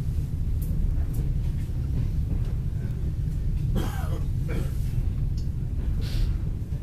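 Steady low rumble of a moving suburban train coach on the rails, heard from inside the carriage, with a few sharp clicks in the first second or so. A brief voice rises over it about four seconds in.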